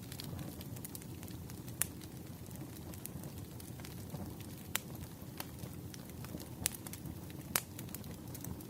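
Wood fire crackling: a steady low rumble with scattered small ticks and four louder sharp pops.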